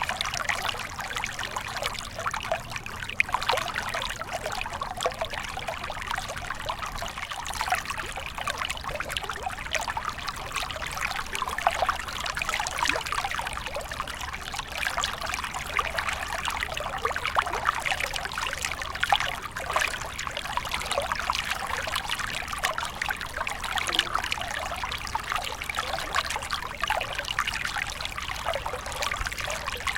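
Small stream flowing steadily over stones, a continuous bubbling trickle.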